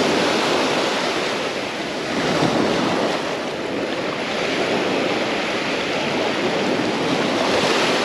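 Small sea waves breaking and washing up a sandy beach, the surf swelling and easing.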